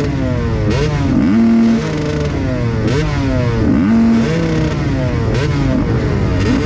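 Several motocross bikes racing on a dirt track, their engines revving up and dropping back again and again as the riders open the throttle and shift gears, with more than one engine note overlapping.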